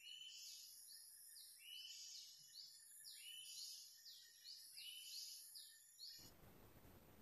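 Faint, quick, high-pitched bird chirps repeated in clusters, over a thin steady high tone.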